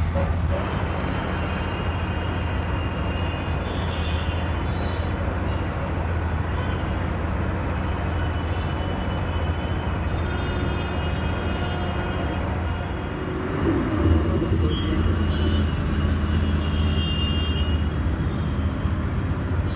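Non-AC city bus running, heard from inside the cabin: a steady low engine drone with road and traffic noise, and a short dip and bump in loudness about two-thirds of the way through.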